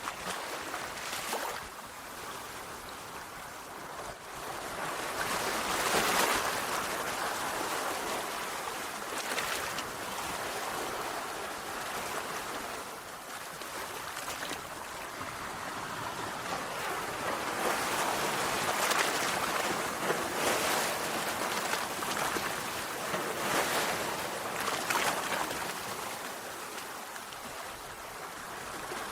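Sea waves breaking and washing up a shore in a steady rush of surf, swelling louder and fading every few seconds as each wave comes in.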